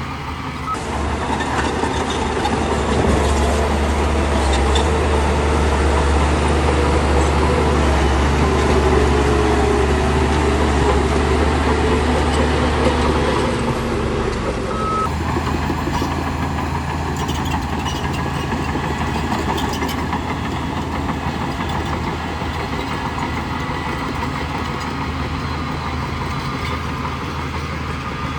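Heavy diesel engine of a bulldozer running steadily under load, louder for the first half and settling to a lower, even running from about halfway through.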